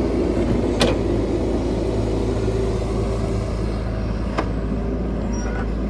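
Caterpillar 312 excavator's diesel engine running steadily, with two short sharp knocks, one about a second in and another about four seconds in.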